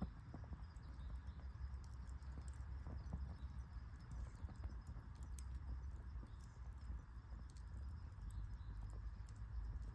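Campfire crackling: scattered small pops and snaps from burning wood over a faint low rumble.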